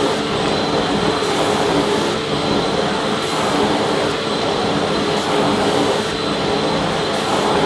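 Vacuum cleaner running steadily: a constant rush of air over a steady motor whine, with faint swells in the hiss every second or two.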